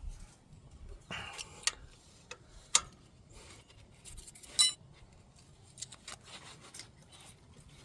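Hand tools and a feeler gauge working on the valve train of an Allis-Chalmers 7010's inline six-cylinder engine while a loose valve clearance is adjusted. Sparse metallic clicks and clinks, a brief scrape just over a second in, and a louder ringing clink a little past halfway.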